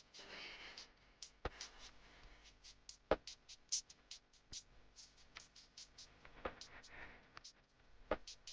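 Scattered light clicks and knocks of things being handled in a kitchen, at uneven intervals.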